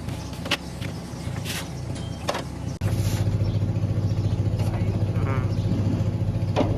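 An engine running steadily with a fast, even pulse, with a few sharp metallic knocks. Nearly three seconds in, it cuts abruptly to a louder, deeper running.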